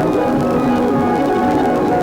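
Ambient electronic music from a Korg Volca Modular synthesizer, layered through a looper and delay: many short pitched tones overlap in a dense, steady wash.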